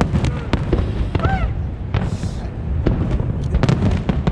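Fireworks show bursting: many sharp bangs and cracks in quick succession over a continuous low rumble of booms.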